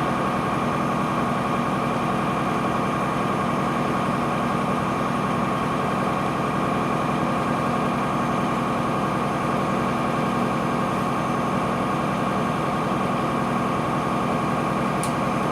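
Cummins ISC diesel engine of a 2002 Blue Bird CS transit bus running steadily at an unchanging pitch, with a steady whine above the engine drone.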